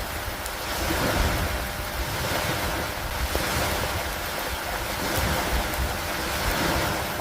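Steady hiss of heavy rain over a low wind rumble, swelling and easing gently, with no distinct thunderclap.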